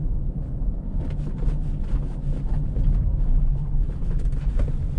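Car driving slowly on a snow-covered road: a steady low rumble of engine and tyres, with faint crackles throughout.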